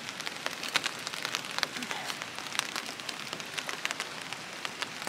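Heavy rain falling, with a steady hiss and frequent sharp ticks of drops striking close by.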